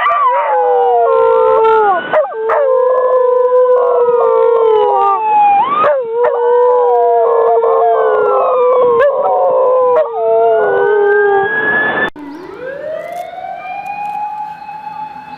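Dogs howling along to an ambulance siren: several long, overlapping howls that break off and start again about every four seconds. About twelve seconds in it cuts to another recording where a siren's wail rises and falls, with a dog beginning to howl near the end.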